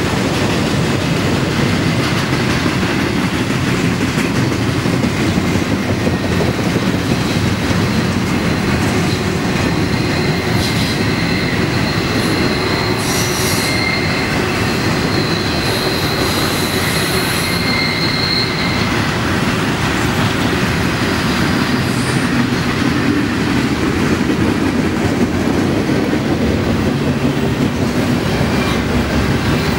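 Double-stack intermodal freight cars rolling past, a steady loud noise of steel wheels on rail. From about a third of the way in until just past the middle, a thin high-pitched wheel squeal rides over it.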